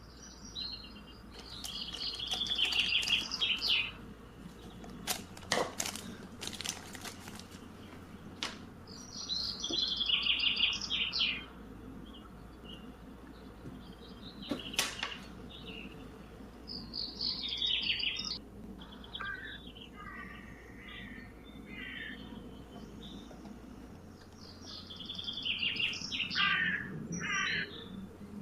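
Small birds chirping in four separate bursts of quick high notes, with a few sharp clicks in between.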